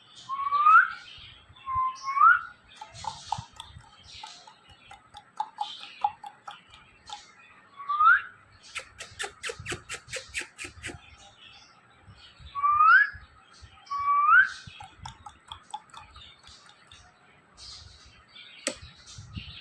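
Ringneck parrot whistling: five short rising whistles spread through, with soft chatter and clicks between them and a rapid run of clicks about halfway through.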